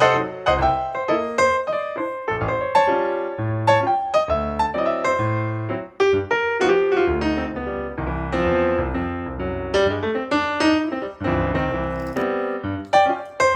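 Background piano music with a steady run of notes over a bass line.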